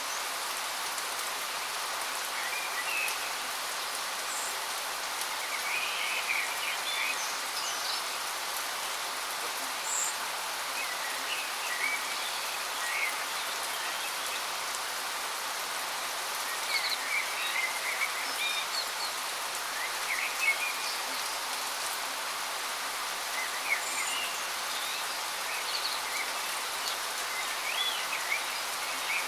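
Waterfall running with a steady, even hiss of falling water, while small birds chirp in short scattered bursts throughout.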